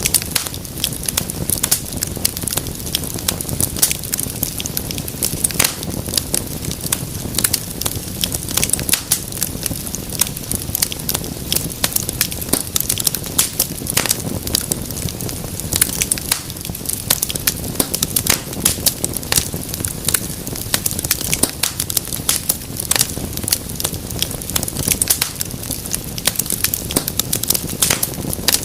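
Wood fire crackling steadily: a constant low rumble of flame under a dense run of irregular sharp pops and snaps.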